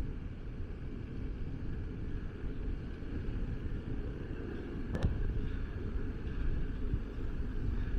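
Wind rumbling on the microphone outdoors, a steady low buffeting, with one sharp click about five seconds in.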